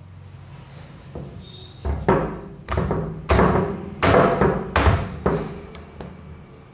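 Parts of a plastic washing machine trolley being knocked together during assembly: a run of about seven sharp knocks, starting about two seconds in and ending about five and a half seconds in.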